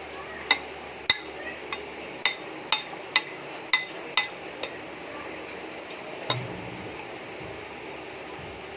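Tableware clinking: a utensil knocks against a dish about nine times at a steady, roughly half-second pace, then once more a couple of seconds later. Each knock is short and rings briefly.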